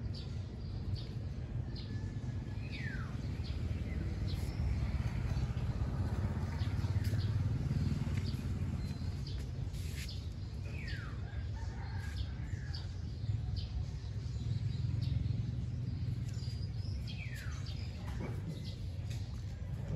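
Birds chirping: many short high chirps and, three times, a falling whistled call, over a low steady rumble.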